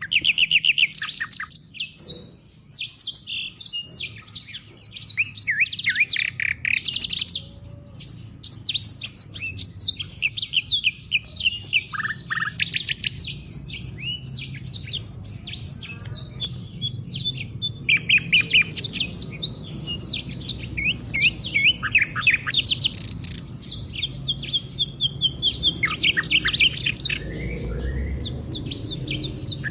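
A chorus of several African songbirds chirping and twittering in quick, overlapping high-pitched trills and phrases, almost without a pause.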